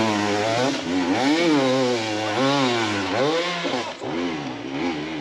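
Dirt bike engine revving up and down in quick, repeated swings as the throttle is worked on and off, getting fainter near the end.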